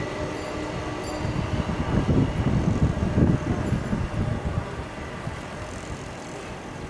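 Low, uneven rumble of a Boeing 747's jet engines, swelling about two seconds in and easing after about four and a half seconds.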